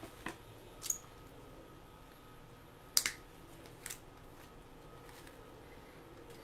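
A few sharp snips of cutters trimming flower stems, the loudest about three seconds in, over a faint steady hum.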